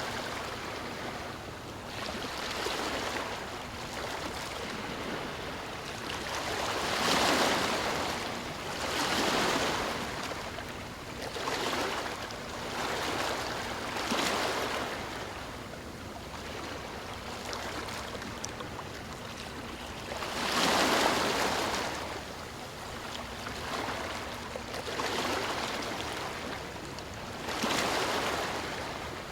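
Sea waves surging and washing ashore, a steady hiss of surf that swells and fades in repeated surges every few seconds.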